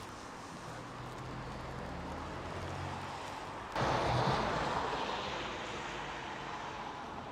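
A motor vehicle passing by: a low engine hum that grows, then a sudden loud rush of tyre and road noise a little past halfway that fades away over the following seconds.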